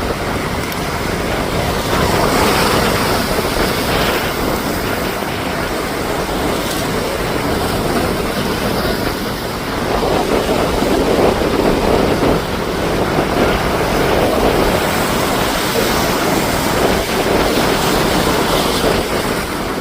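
Ocean waves washing and breaking on the shore in a continuous rush, swelling louder about two seconds in and again about halfway through, with wind buffeting the microphone.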